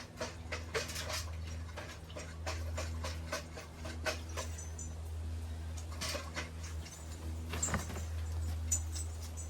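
Steady low hum of a coal forge's blower, with scattered light clicks and, near the end, small metallic clinks.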